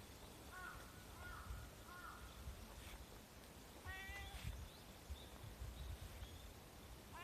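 Tabby-calico cat meowing: a few short chirping meows about a second in, then one longer meow around four seconds in, with another beginning near the end.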